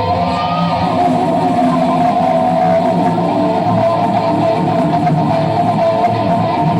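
Live rock band playing, led by electric guitar holding sustained, bent notes over bass and drums.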